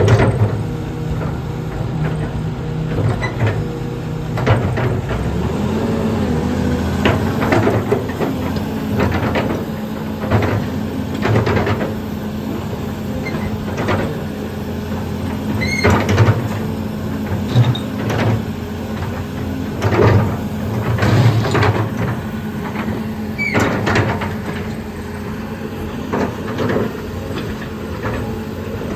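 Volvo EC210 excavator's diesel engine running, its pitch stepping up about five seconds in, with repeated clanks and knocks from the machine working.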